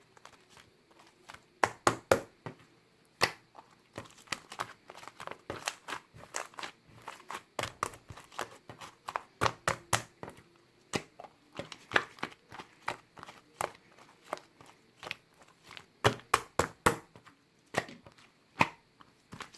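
Slime being squished and kneaded by hand, giving a string of wet clicks and pops at irregular intervals.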